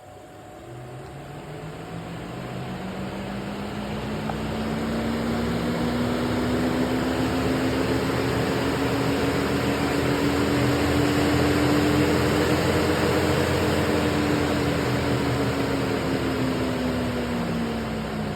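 VW/Audi electric radiator cooling fan motor run by a VCDS output test: a hum and rush of air that climb steadily in pitch and loudness for several seconds as the fan spins up, hold, then begin to drop near the end as it slows.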